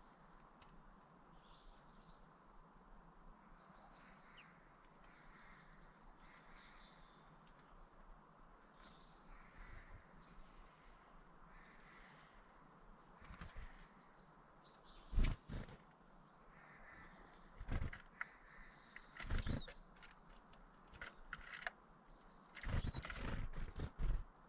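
Small birds chirping faintly, then several loud, short bursts of close wing flapping and scuffling near the microphone in the second half, the loudest about halfway through.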